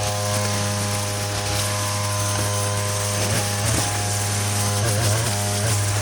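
Two-stroke string trimmer engine running at high speed as it cuts low grass; its pitch wavers and dips a few times in the middle as the line bites into the grass.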